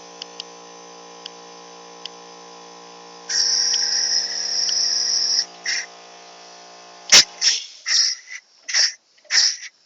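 Homemade steam traction engine: a steady hum, then steam hissing for about two seconds, a sharp knock about seven seconds in, and then the engine chuffing at about two exhaust puffs a second as it gets going from cold.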